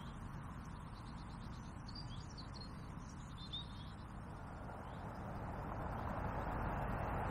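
A few small birds chirping faintly about two to three seconds in, over a steady outdoor rush of noise that grows louder over the last couple of seconds.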